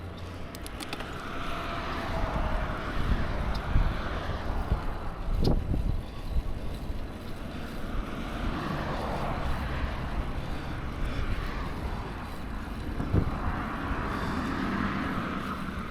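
Wind rumbling on the microphone of a moving bicycle, with the rush of road traffic rising and fading as vehicles pass, three times.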